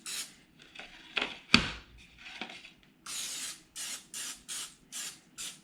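Short hissing spritzes of cooking oil from a spray bottle onto a steak: one at the start, then about five quick spurts in a row from about three seconds in. A single knock about a second and a half in, as the steak is turned over.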